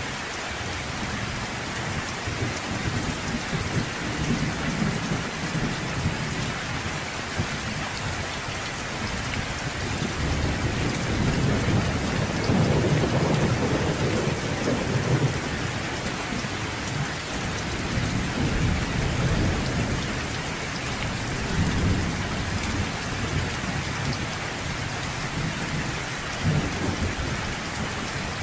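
Steady rain with rolling thunder: a low rumble swells about ten seconds in, is loudest a few seconds later, then fades and rumbles again more softly.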